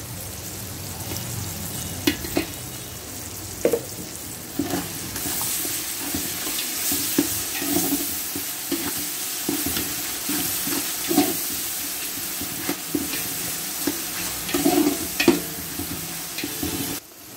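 Mutton pieces, bones and fat frying in oil in a large pot, with ginger-garlic paste just added. There is a steady sizzle, growing louder about five seconds in, while a metal ladle stirs and knocks against the pot.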